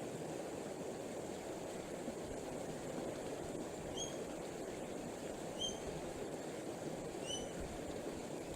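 Steady outdoor background hiss and rumble, with three short, high bird chirps about a second and a half apart in the second half.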